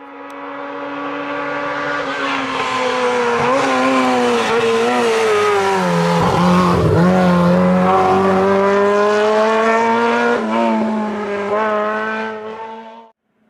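Historic rally car engine driven hard on a stage, holding high revs, with the note dipping briefly about halfway through before pulling again. The sound cuts off abruptly near the end.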